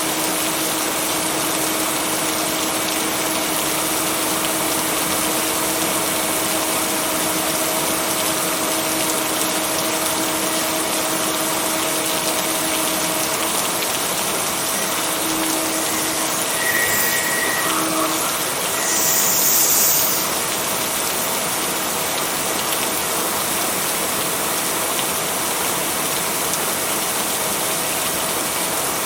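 Steady heavy rain, an even hiss with a steady low hum under it that fades out a little past halfway. About two-thirds of the way through there is a brief louder surge of high hiss.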